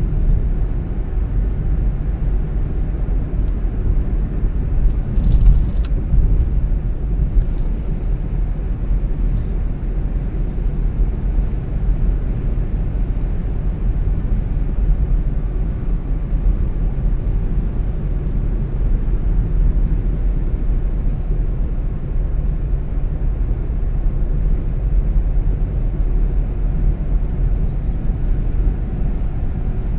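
A car driving steadily, with a constant low rumble of road and engine noise. There are a few brief clicks in the first ten seconds.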